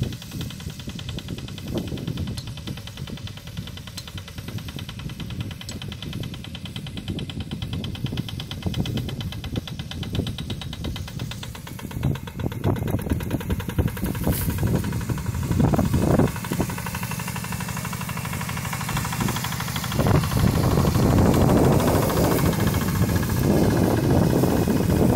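Homemade tractor's diesel engine running with a rapid, even knocking beat, getting louder partway through and much louder near the end.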